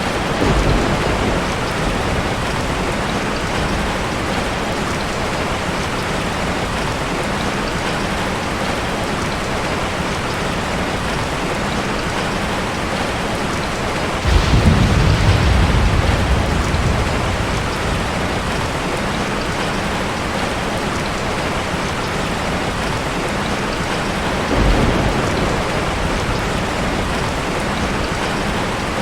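Steady rain falling, with thunder rumbling three times: briefly near the start, loudest and longest about halfway through, and again briefly near the end.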